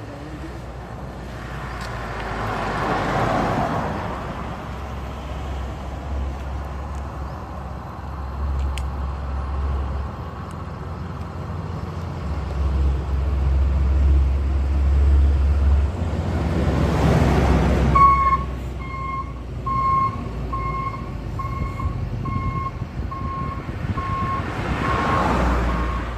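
Heavy truck engines rumbling low and steady, with vehicles passing close by three times, each rising and fading. About two-thirds of the way through, a truck's reversing alarm starts beeping about once a second.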